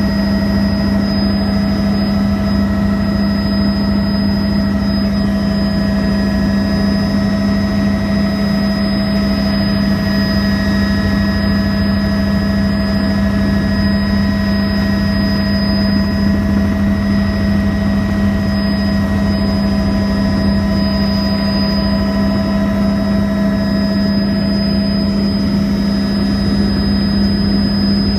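Helicopter in flight, heard from the cabin: a steady, loud drone with a strong constant hum and several steady higher whines above it, unchanging throughout.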